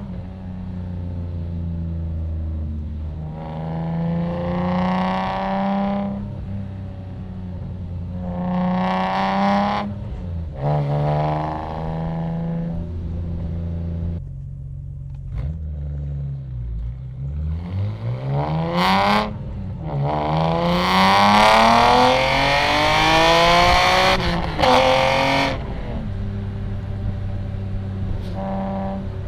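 BMW E46 M3's S54 inline-six through a loud aftermarket exhaust, pulling through the gears: the pitch climbs in several short pulls and drops back at each shift. Past the middle comes the longest, loudest pull, with a few sharp pops around it, before it settles to a steady cruise near the end.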